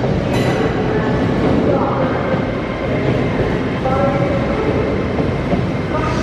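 Passenger train running on the rails, a steady loud rumble with a sharp click about half a second in.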